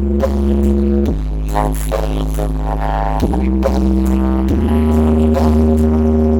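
Loud music played through a large carnival sound system, with sustained synth chords over a heavy, steady bass that change about every second or two.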